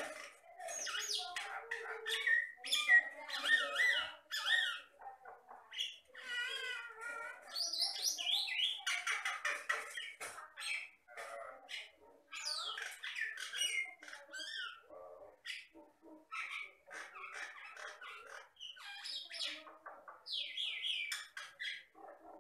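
Jalak Batam myna singing a long, unbroken run of varied chattering notes, clicks, gliding whistles and harsh calls, the busy full song of a bird in full voice.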